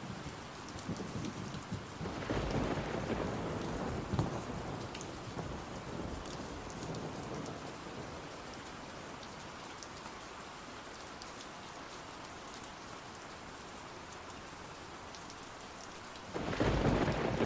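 Steady rain falling, with thunder rolling twice: a rumble about two seconds in and a louder one near the end.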